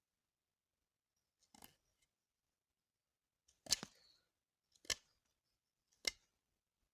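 Four short, sharp clicks: a faint one, then three louder ones about a second apart, the first of these the loudest.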